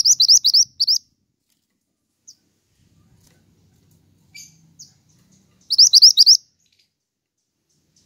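Pied bushchat (burung mantenan) singing: two short, loud phrases of quick rising whistled notes, one at the start and one about six seconds in, with a few faint single chips between.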